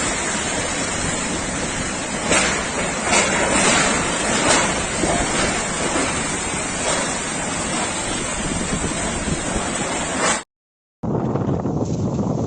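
Cyclone storm noise: wind and water in a steady rush, with a few brief louder surges between about two and five seconds in. It cuts off about ten seconds in, and after a short gap a duller rush of wind comes back.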